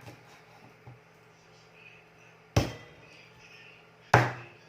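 Knife chopping raw chicken on a cutting board: two sharp chops about a second and a half apart, each ringing briefly.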